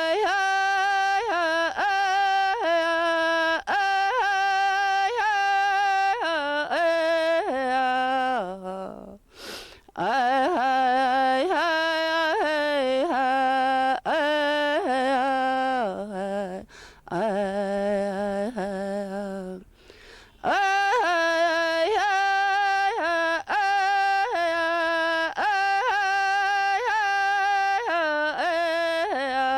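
A man singing a traditional First Nations song alone and unaccompanied: long held notes in phrases, with brief pauses for breath between them.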